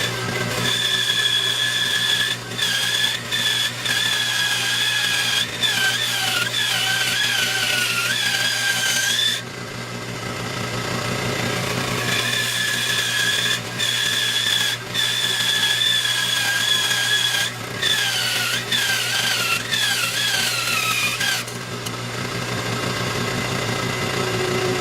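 Bandsaw running and cutting a heart shape out of thick black walnut. Its high whine wavers and drops in pitch in two long stretches as the blade works through the curves, with a quieter spell about ten seconds in.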